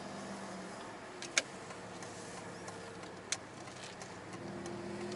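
Aston Martin V engine running with a steady note that shifts in pitch a couple of times, plus two sharp clicks. The note comes from a leaking left-bank exhaust, which the owner puts down to nuts on the new exhaust not being secured.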